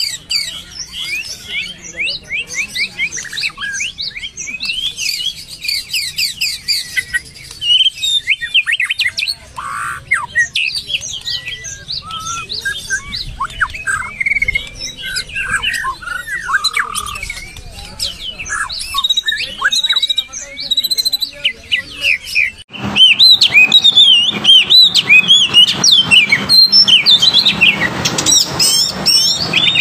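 White-rumped shama and oriental magpie-robin singing: a dense, continuous stream of rapid, varied whistles, trills and sweeping notes. About 23 s in, the song jumps abruptly louder.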